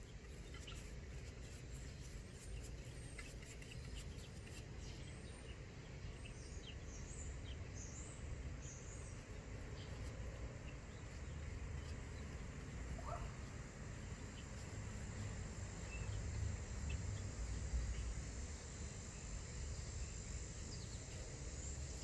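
Outdoor ambience: a low steady rumble with a few high bird chirps about seven to nine seconds in and a faint, steady high insect drone.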